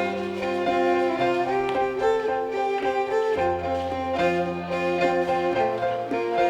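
Live contra dance band playing a fiddle tune: a fiddle carrying the melody over long held bass notes that change about every second.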